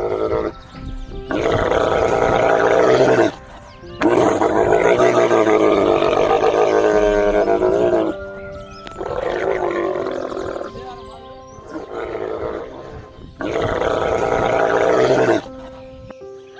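A big cat roaring in several long, loud roars over steady background music.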